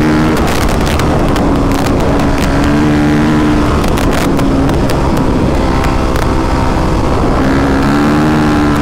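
Single-cylinder dirt bike engine running at part throttle on a trail, its note rising and falling a little. Sharp knocks and clicks are scattered through it.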